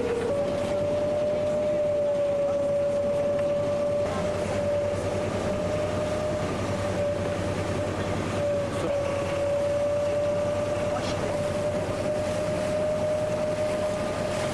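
A motorized junk's engine running steadily on board, a constant whining tone over a low rumble.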